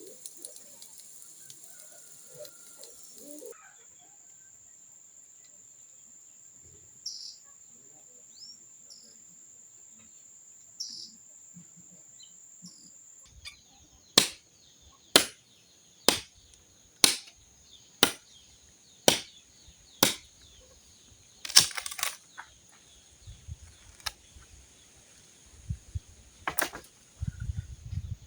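A run of sharp knocks, about one a second for some eight strikes, then a quick cluster and one more near the end. Under them runs a steady high insect-like drone, with a few bird chirps early on.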